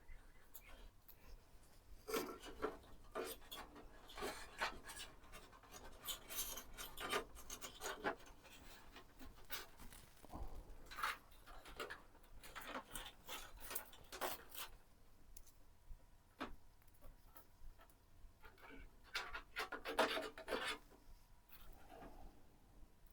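Hands handling PC components and case parts, with irregular rubbing, scraping and small clicks.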